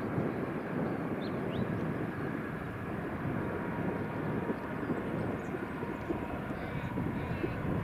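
Airbus A350-900 jet engines heard as a steady, distant rumble as the airliner climbs away after takeoff.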